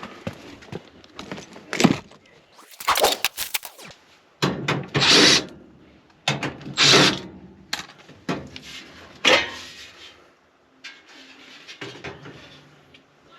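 Irregular handling noises: a string of clicks and knocks with several short rustling bursts.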